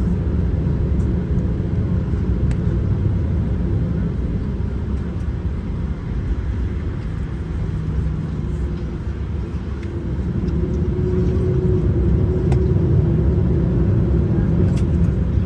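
Steady low rumble of a vehicle heard from inside it, with a faint hum that comes up in the second half.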